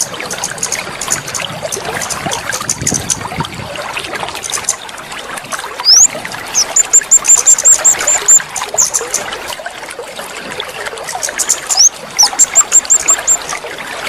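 Water trickling and splashing steadily, a water-therapy sound for a caged songbird. Twice a small bird gives a quick rising note followed by a rapid run of high chirps, about seven a second, which are the loudest sounds.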